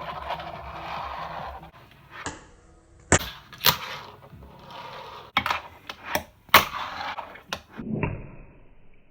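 Fingerboard clacking on a ramp during flip-trick attempts: a run of sharp taps as the tail is popped and the board lands, with light wheel rolling in between.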